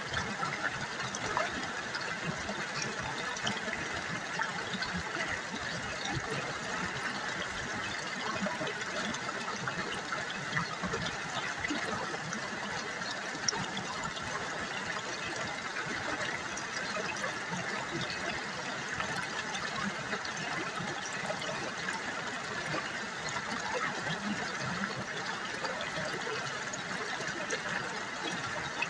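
River water babbling and trickling steadily over stones, a continuous splashy gurgle that holds an even level throughout.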